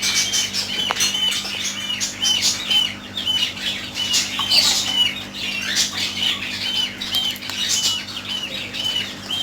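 Caged birds calling: a steady run of short, high chirps, a little over two a second, with harsher squawks mixed in.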